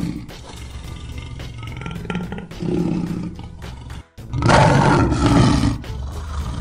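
Lion roaring several times over background music, the loudest and longest roar coming about four and a half seconds in.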